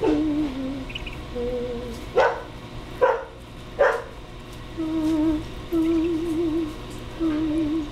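A dog barks three times in quick succession, about a second apart, with a low wavering hum before and after the barks.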